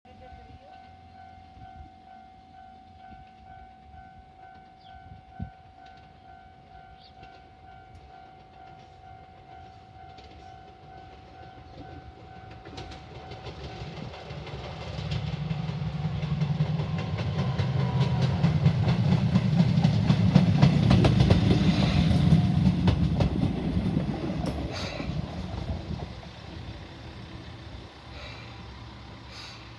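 Level-crossing warning bell ringing in a steady, even pulse. Then a Moka Railway Mooka 14 diesel railcar approaches, its engine and wheels on the rail joints growing loud as it runs in past the platform. The sound dies down to the low, steady hum of the engine idling near the end.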